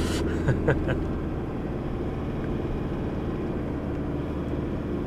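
Four-wheel-drive vehicle driving along a dirt track, with a steady engine drone and road noise.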